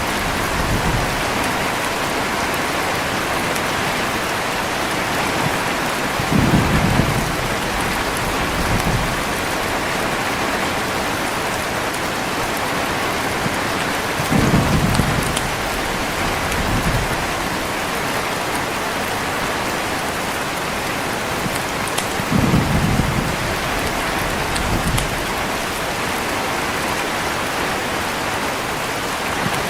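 Steady heavy rain with short, low thunder rumbles, one about every eight seconds, each followed by a smaller rumble about two seconds later.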